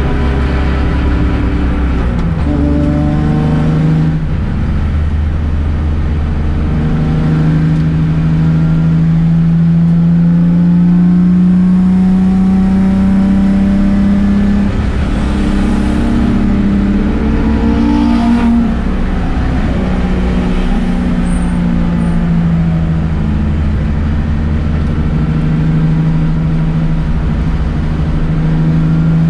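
The 1995 BMW E36 M3's rebuilt S50 straight-six running under load on track. Its pitch climbs steadily for several seconds at a time and drops suddenly several times.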